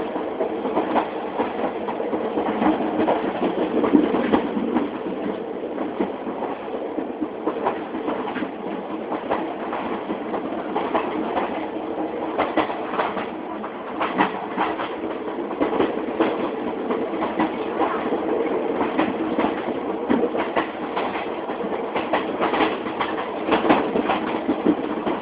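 Passenger train heard from inside the carriage: a steady rumble of wheels on the rails, with frequent clicks and knocks.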